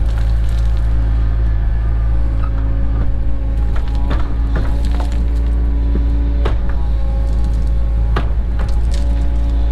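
Cat 307 mini excavator's diesel engine running steadily, with a hydraulic whine that drops out for a few seconds in the second half. Scattered sharp knocks and clinks sound throughout.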